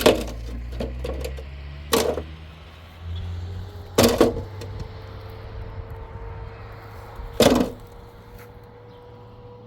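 Four loud, sharp knocks, about two seconds apart and then a longer gap, each with a short ring, over a steady low engine drone.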